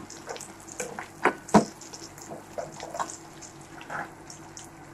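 Chopped ginger, garlic and green chilli frying in oil and butter in a steel pan, crackling and sputtering softly as they brown. A spoon stirs and knocks against the pan, twice sharply about a second and a half in.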